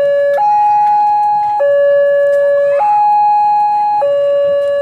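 Electronic warning alarm of a railway level crossing sounding a two-tone signal: a higher and a lower note alternating, each held a little over a second. It signals that a train is approaching and the barriers are closing or closed.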